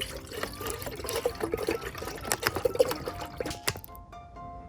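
Raw makgeolli poured from a bottle into a cup, gurgling for about the first three seconds, with background music underneath.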